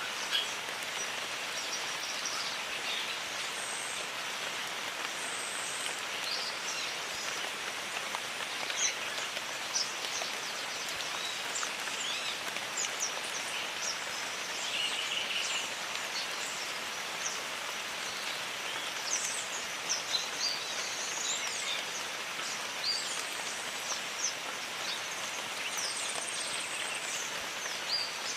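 Jungle ambience: steady rain falling, with many birds chirping and whistling in short calls throughout, a brief buzzy call about halfway and a high trill near the end.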